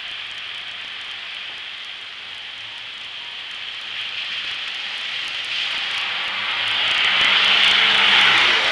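A car driving through deep standing floodwater, its tyres hissing and spraying, growing louder as it approaches and loudest near the end.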